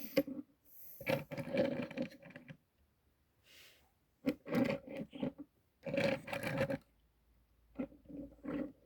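A person's voice in short stretches with pauses between, words that did not come through clearly.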